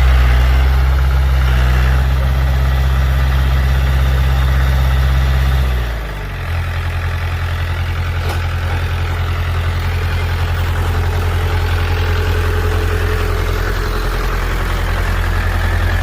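Heavy diesel engine running steadily, then throttling down about six seconds in and idling on at a lower, steady note.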